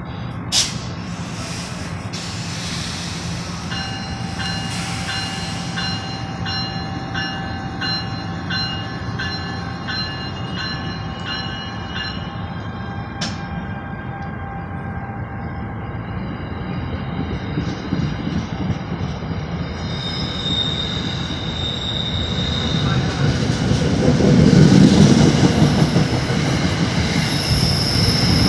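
NJ Transit commuter train pulling out of a station: a steady low rumble with a single sharp knock about half a second in. A beeping tone repeats about once every 0.7 s for roughly eight seconds. Then the wheel noise builds as the coaches speed past close by, with high-pitched wheel squeal, loudest near the end.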